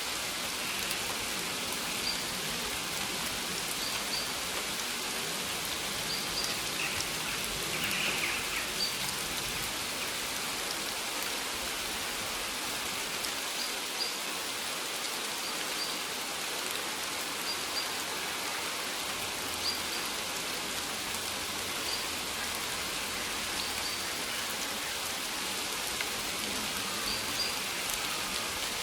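Steady rain falling, an even hiss of drops that is strongest in the high range, with faint short high notes recurring every couple of seconds.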